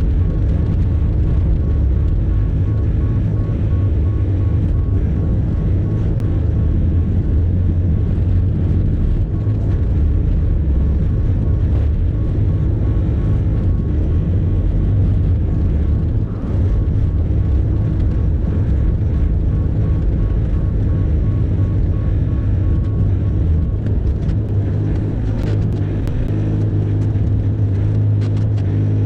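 Bobcat E50 mini excavator's diesel engine running steadily with a low drone.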